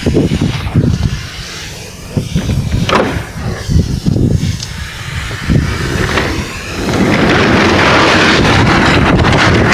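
Wind buffeting the microphone in irregular low gusts, turning into a steady loud rushing noise about seven seconds in.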